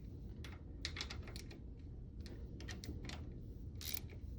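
Small socket ratchet clicking in short irregular runs as the water pump faceplate bolts are snugged down.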